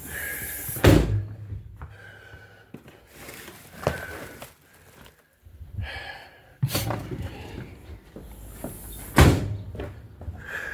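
Two loud knocks about eight seconds apart, with a few lighter knocks between them; each loud knock is preceded by a brief hiss.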